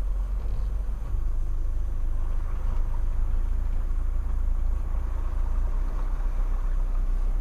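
Mitsubishi Pajero Sport driving slowly off-road: a steady low engine and drivetrain rumble with tyre and road noise, a little louder about a second in.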